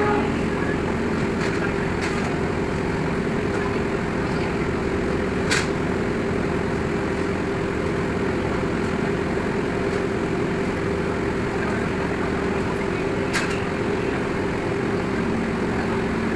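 Pangrango passenger train running: a steady rumble with a constant hum, broken by two short sharp clicks, one about five seconds in and one near the end.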